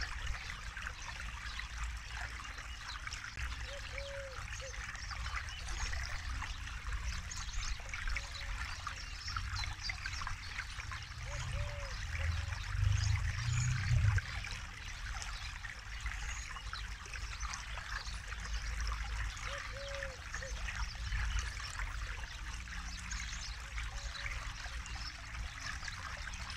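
Forest river flowing over rocks, a steady babble and trickle of water. A low rumble swells briefly about halfway through.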